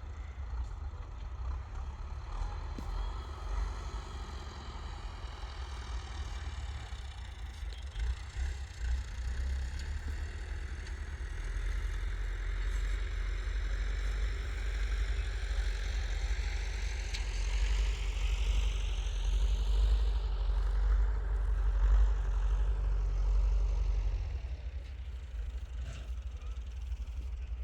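An engine running with a deep, steady rumble. From about twelve seconds in it rises in pitch and gets louder, as if under load or revving, then eases off a few seconds before the end.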